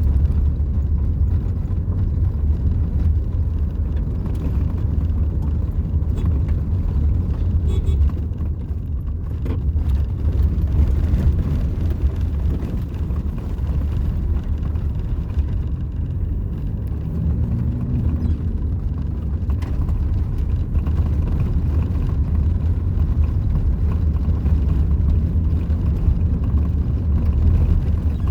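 Steady low rumble of road and engine noise from a moving vehicle, heard from on board.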